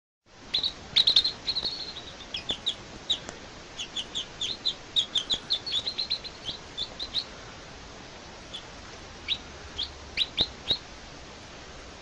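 Baby birds chirping: short, high, falling chirps in quick runs for about seven seconds, then only a few scattered ones, over a steady hiss.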